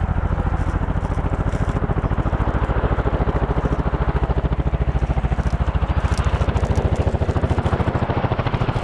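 RAF Chinook twin-rotor helicopter displaying: its rotor blades beat in a fast, even rhythm of about a dozen pulses a second over the steady sound of its turbine engines.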